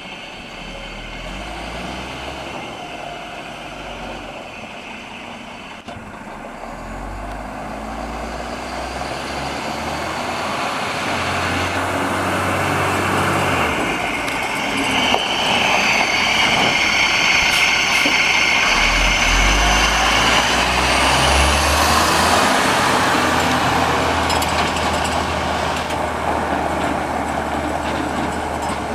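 Diesel engine of a 1990 M931A2 military tractor truck running under way. The engine grows louder to a peak about halfway through, then eases slightly, and its pitch changes in steps several times.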